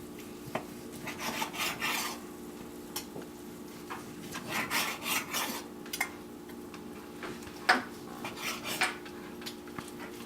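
Knife sawing through a seared steak on a cutting board in three bouts of back-and-forth strokes, with sharp taps of the blade against the board; the loudest tap comes about three-quarters of the way in.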